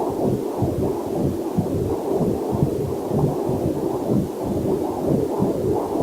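Heartbeat picked up through a fetal Doppler heart monitor: rapid, muffled, whooshing pulses that repeat steadily.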